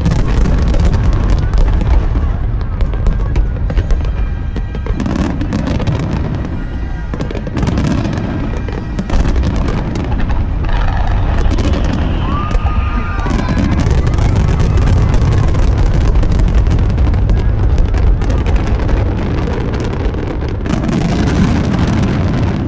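Large aerial fireworks going off in rapid succession: many sharp bangs and crackles over a continuous low rumble.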